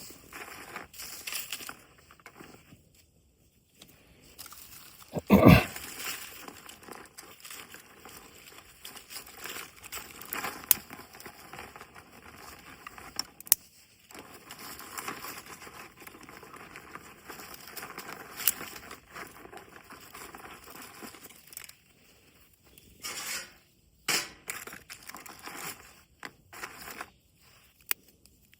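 Irregular rustling and crinkling of dry material being handled, with scattered sharp clicks and one loud knock about five and a half seconds in.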